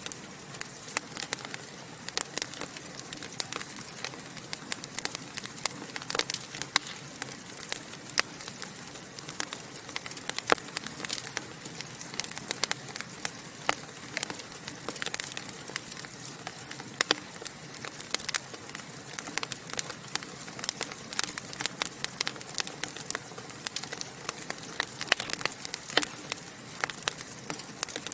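Wood fire crackling and popping in a fireplace: a dense, irregular run of sharp snaps and pops over a steady soft hiss.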